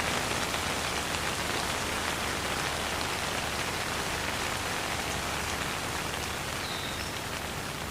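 Steady rain falling, with the patter of individual drops on a surface and no thunder.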